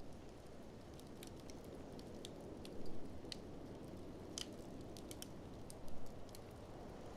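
Wood fire crackling in a fireplace, with irregular sharp pops and a few louder bursts about three and six seconds in, over a steady low rumble of blizzard wind.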